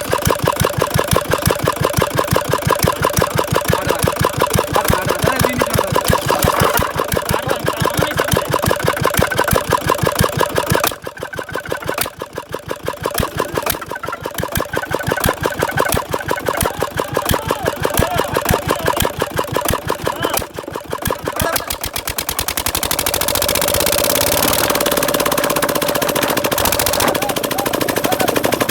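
Petter diesel engine running with a loud, even exhaust beat. It dips twice briefly, then speeds up near the end into a much faster, denser beat.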